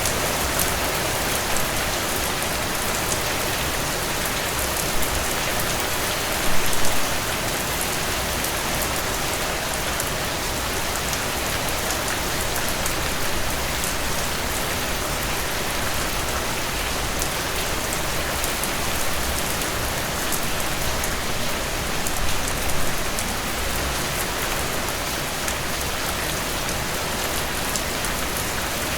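Heavy rain falling steadily, a dense hiss with scattered drop patter. It swells briefly about six and a half seconds in, and again for a moment a little after 22 seconds.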